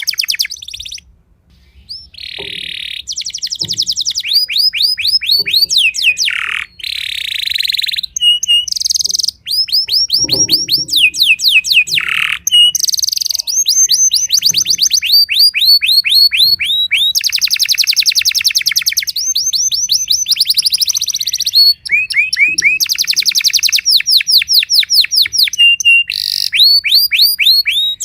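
Timbrado canary singing a long, loud song of rapid repeated-note trills and rolls, switching to a new phrase every second or two, with a brief pause about a second in.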